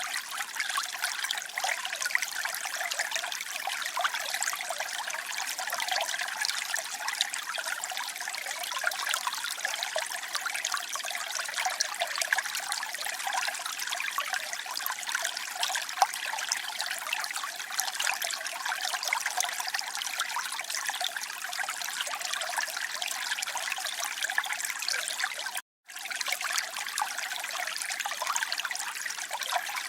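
Water trickling and splashing steadily, a bright even patter, with a momentary silent break about 26 seconds in.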